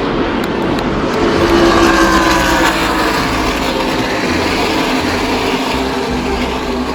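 Race trucks running on the track in a loud, steady engine noise. One engine note drops in pitch between about two and four seconds in as a truck passes.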